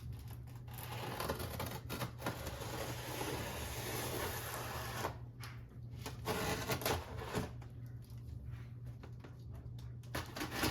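Cardboard packaging and foam being handled and opened: irregular rustling and scraping with small knocks, stopping briefly a couple of times.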